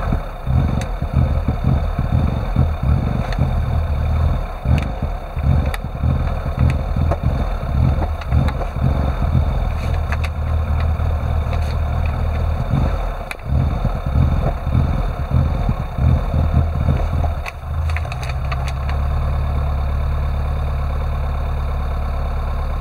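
Classic Rover Mini's fuel-injected four-cylinder engine running rough, its note stumbling and surging unevenly: the idle is unstable and the revs do not rise when the throttle is opened. Near the end it settles into a steady idle.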